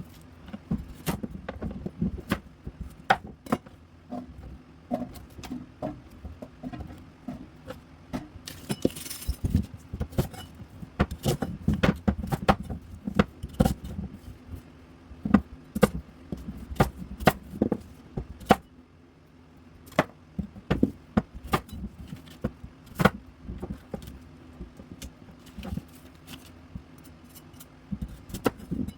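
Kitchen knife chopping vegetables on a cutting board: irregular knocks and clicks, several a second, with pieces clattering and a short pause partway through.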